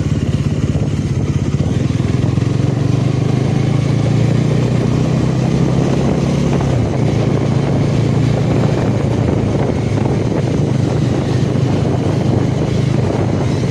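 Motorcycle engine running steadily at riding speed, with road and wind noise. The engine note dips briefly about halfway through, then holds steady again.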